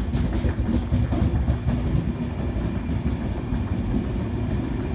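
Enterprise passenger train's coaches rolling past on the rails as it pulls out: a steady, loud low rumble with a few wheel clicks in the first second.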